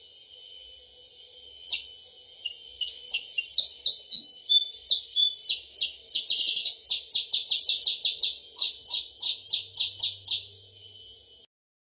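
Recorded lure call of the kutilang sutra (percang), a small songbird: scattered sharp chirps that quicken into a fast, even series of about four notes a second, over a steady high hiss, then stop abruptly near the end.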